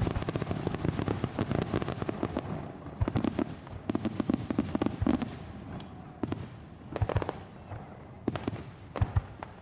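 Aerial fireworks bursting: a dense run of rapid crackling for the first two seconds or so, then thinning out to scattered single bangs.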